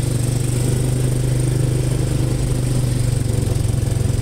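An engine running steadily close by, a constant low hum with rapid, even firing pulses and no change in speed.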